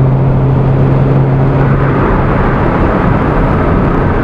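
Honda S2000 inline-four and Milltek dual exhaust heard from inside the closed cabin at highway speed, over tyre and wind noise. A steady low exhaust hum under light load fades out about halfway, leaving road noise at a steady 80 mph cruise with no exhaust drone.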